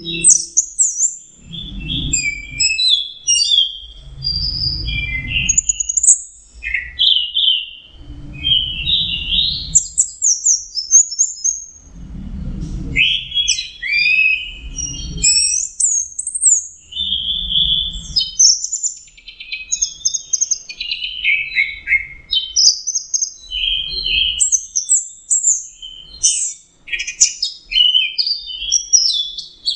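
Orange-headed thrush singing in its 'teler' mode: a long, continuous, rambling run of varied quick chirps, slurs and trills with hardly a pause. Faint low rumbles sit underneath every couple of seconds.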